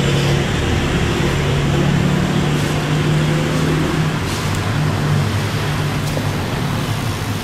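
Road traffic: a motor vehicle's engine running steadily, a low hum that shifts pitch a few times.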